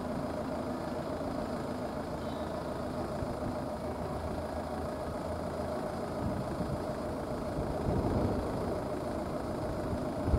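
A vehicle engine running steadily with a low hum, and uneven low rumbles coming and going in the second half.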